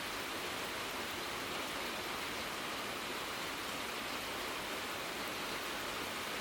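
Heavy rain pouring down steadily, an even hiss of rain with no breaks.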